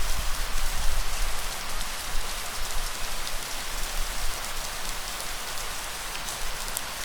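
Light rain falling steadily: an even hiss of drops with scattered small ticks, over a faint low rumble.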